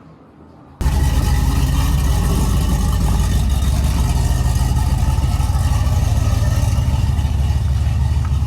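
A vehicle engine running steadily with a loud low rumble, cutting in suddenly about a second in.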